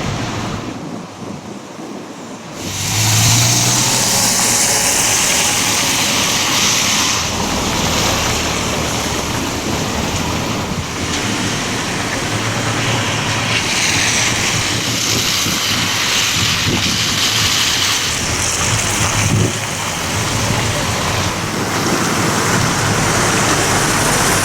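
Strong gusting wind rushing over the microphone, mixed with road traffic noise. The noise jumps louder about three seconds in.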